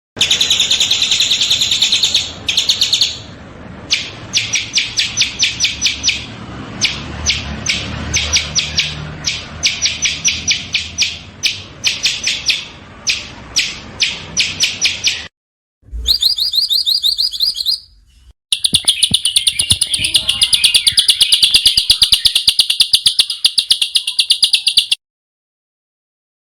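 Small songbirds singing in fast, tight runs of short high chirps, repeated several times a second. The song comes in edited segments that start and stop abruptly, with short silent gaps between them.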